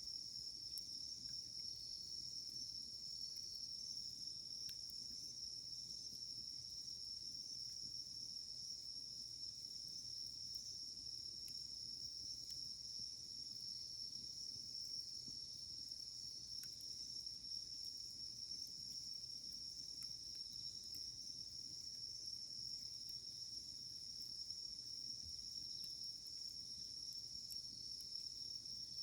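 A steady, unbroken chorus of chirring insects, high-pitched. A few faint, scattered crackles from the burning firewood come through underneath.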